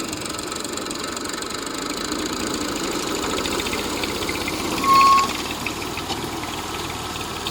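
Massey Ferguson 135 tractor engine running steadily at idle. About five seconds in, a brief high beep sounds over it; this is the loudest sound.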